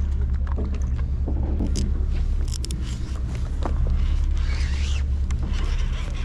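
Fishing boat's engine running with a steady low hum, with scattered clicks and scrapes over it and a short warbling high-pitched sound about four and a half seconds in.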